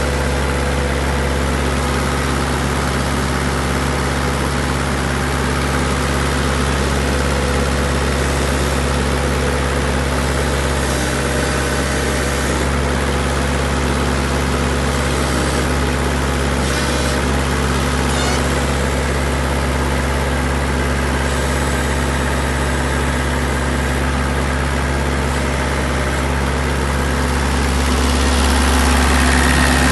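Core drilling rig's engine running steadily at idle, rising a little in loudness near the end.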